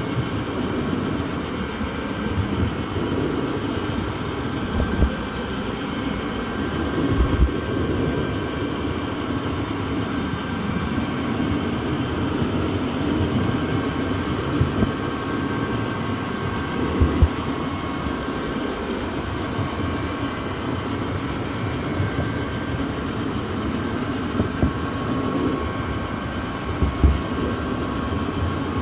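Train running along the track: a steady rumble with a few short low thumps now and then.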